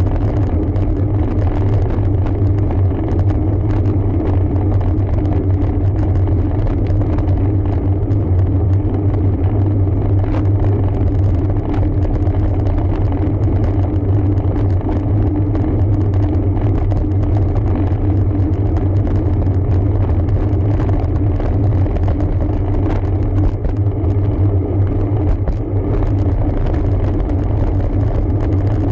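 Steady low rumble while riding a road bike uphill: tyre and road noise with wind on the microphone.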